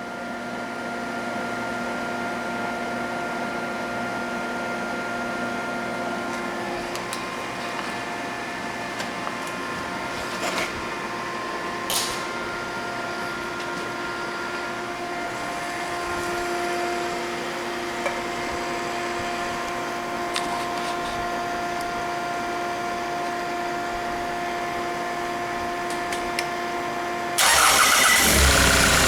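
A steady mechanical hum with occasional light clicks and taps, then, about 27 seconds in, a D4CB 2.5-litre four-cylinder common-rail diesel cranks and starts, suddenly much louder, and settles into running for an oil pressure check.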